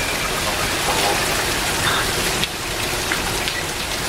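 Heavy thunderstorm rain falling steadily, with individual drops ticking on hard surfaces.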